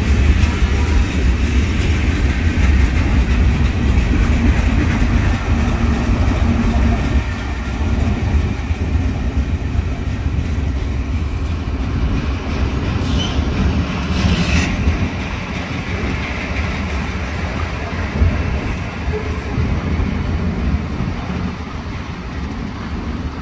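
Freight train cars rolling past on steel rails with a steady low rumble of wheels that slowly fades as the end of the train passes and moves away. Two short, high-pitched sounds come about halfway through.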